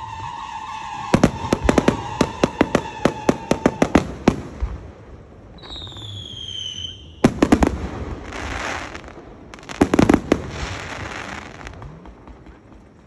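Fireworks going off: a quick string of sharp bangs over three seconds, a falling whistle near the middle, then two more clusters of bangs, each followed by a crackling hiss.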